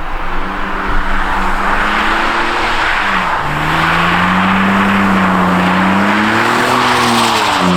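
Car engine running at high revs while drifting on snow, its pitch wavering with the throttle, dipping about three seconds in and then climbing again, under a steady hiss.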